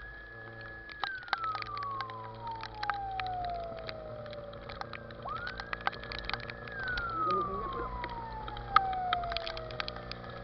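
Emergency vehicle siren wailing: twice it climbs quickly to a high note, holds it about a second, then slides slowly down over about four seconds. Many sharp crackles and a low steady hum run underneath.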